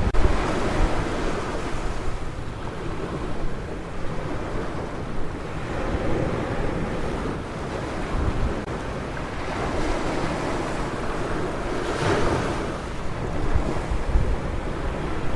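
Ocean surf: waves breaking and washing up a beach in several surges, the strongest about twelve seconds in, with wind on the microphone.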